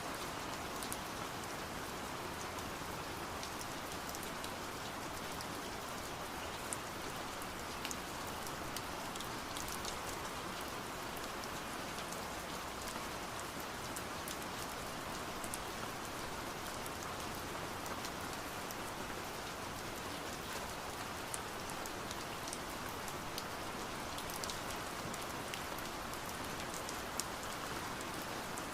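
Steady rain hiss with many scattered sharp taps of drops hitting window glass.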